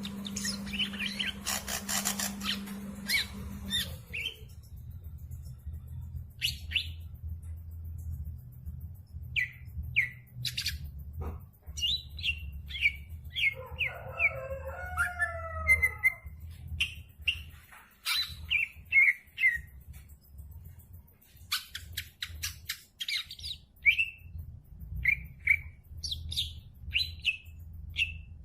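Green leafbird (cucak ijo) singing: a string of short, sharp chirps with a warbling, gliding phrase about halfway through. A low steady hum runs underneath, and the first few seconds carry a denser rustling noise.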